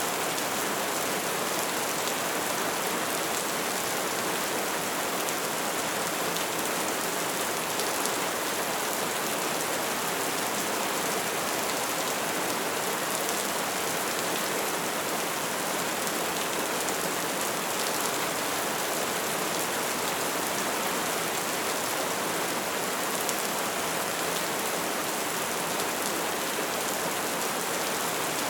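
Bonfire crackling steadily: a dense run of small pops and snaps over a constant hiss.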